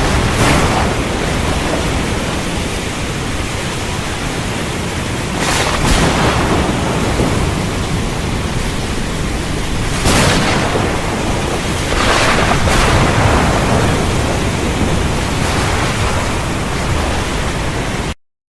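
Heavy rain pouring steadily with a low thunder rumble underneath, and several louder crackling surges about six, ten and twelve seconds in. Near the end it cuts off suddenly.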